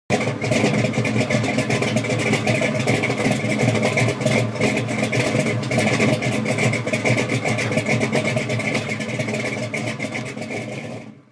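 A 1967 Pontiac GTO's V8 engine running steadily with a dense, rapid crackle; the sound starts suddenly and cuts off quickly near the end.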